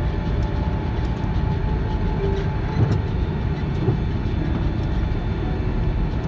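Steady low rumble of cabin noise inside an Airbus A330 airliner around landing, with two light knocks about three and four seconds in.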